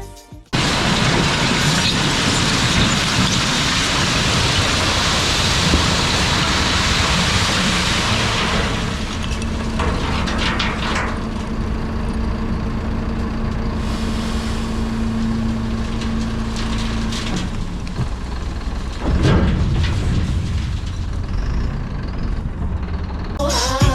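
Mercedes Atego hooklift truck running: a loud rushing hiss for the first several seconds, then steadier running with a held hum that stops about two-thirds of the way through.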